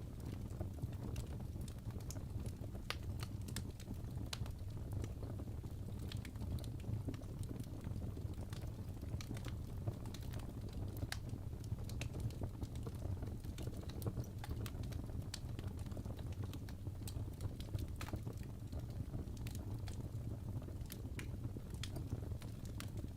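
Fireplace crackling: irregular small pops and snaps over a steady low rumble.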